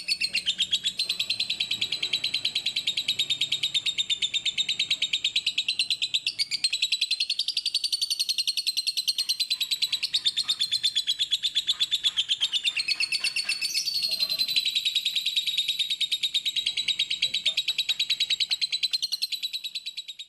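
Lovebird singing a fast, unbroken chattering trill of rapid high-pitched chirps.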